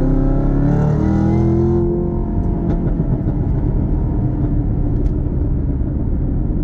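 2018 Chevrolet Camaro ZL1's supercharged 6.2-litre V8 through a Borla aftermarket exhaust, rising in pitch as it revs over the first two seconds, then dropping back to a steady, rough idle rumble.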